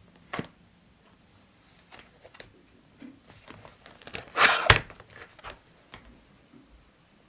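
Paper and stationery being handled on a desk while decorating a diary: a sharp click, scattered small taps and rustles, and a louder paper rustle about four and a half seconds in that ends in a sharp tap.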